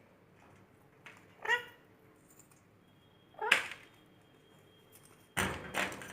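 Two short, high-pitched vocal calls about two seconds apart, the second noisier than the first, followed near the end by rustling bursts.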